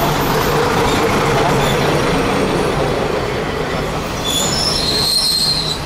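Kashima Rinkai Railway diesel railcar running into the station alongside the platform, a steady rumble of wheels on rail. From about four seconds in, a high thin squeal of several tones sets in as the train slows to a stop.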